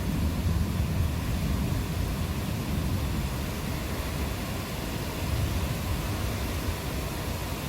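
Steady rain hiss under a low rumble of thunder that eases about a second in.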